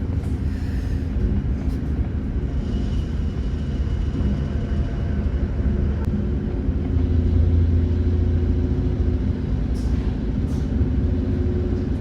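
Passenger train running, a steady low rumble with a faint hum and a few light clicks.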